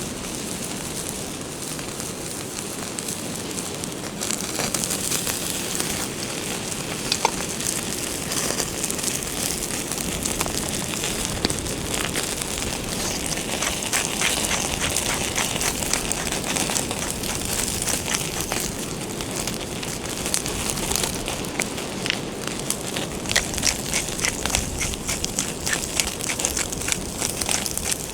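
Wood fire crackling under a steady hiss, with many sharp pops that grow denser toward the end.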